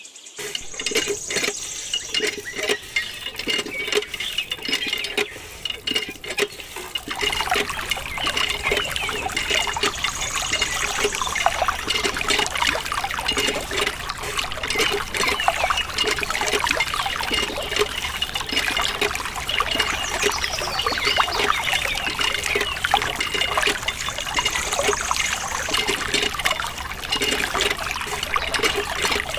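Water trickling and splashing in a small stream, with a continuous patter of fine drips and splashes.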